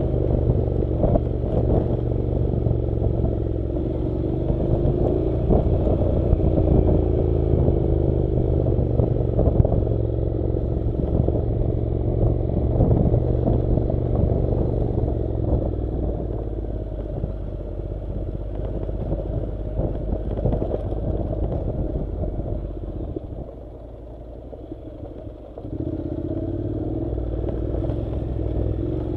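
Honda NC700's parallel-twin engine running steadily under way on a dirt track, with constant rattling and clatter over it. The sound falls away for about two seconds near the end, then picks up again.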